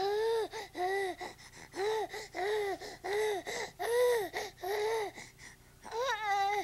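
A baby's voice: a string of about ten short, high 'ah' calls, each rising and falling in pitch, about two a second, with a wavering, quavering call near the end.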